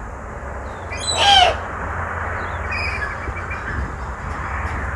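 A captive owl calling once, about a second in: a short, loud call that rises and falls in pitch. A faint bird chirp follows near the end of the call's echo, over a steady outdoor background hiss.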